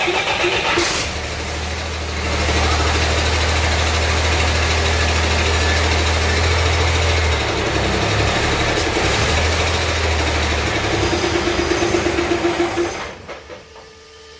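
Cummins 6BT 5.9-litre inline-six diesel firing up for its first start and running steadily. It shuts off about 13 seconds in.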